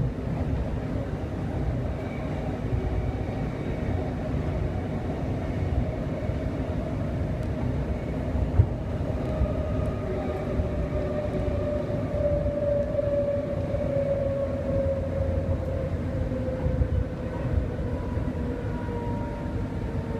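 Steady rumble of an electric passenger train, heard from inside the carriage, with a motor whine that slowly falls in pitch through the second half as the train slows into a station. A single short knock about eight and a half seconds in.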